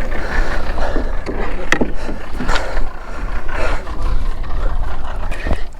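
Steady low rumble of a boat on the water, with scattered knocks and faint voices.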